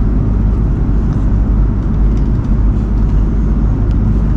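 Steady low rumble of a jet airliner's cabin noise in flight, even and unbroken, with a few faint clicks.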